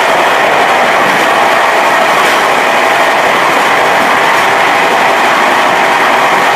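Passenger train coach running at speed, its wheels on the rails making a steady, loud rumble and rush, heard from the rear end of the last car.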